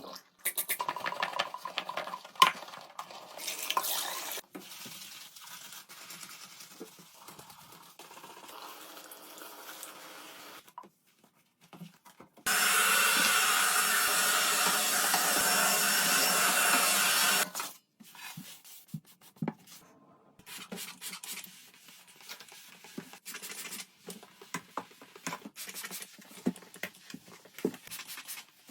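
Household cleaning sounds: scattered handling, rubbing and small knocks, with a loud, steady stretch of noise lasting about five seconds in the middle that starts and stops abruptly.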